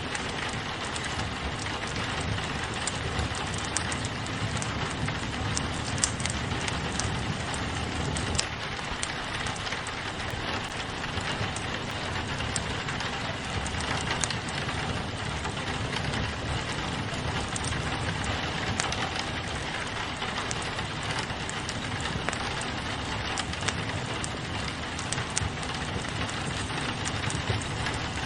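Steady rain on a window, layered with a crackling fireplace whose scattered pops and snaps sit over the rain.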